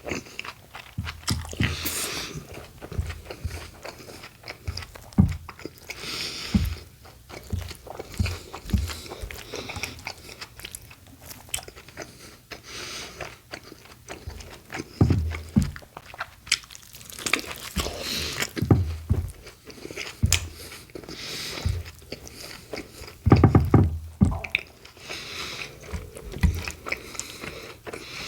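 Close-miked eating of a BLT sandwich: bites into crusty bread, crisp bacon and lettuce, with crunching and wet chewing that come and go irregularly. The loudest crunches fall about two thirds of the way in and again near the end.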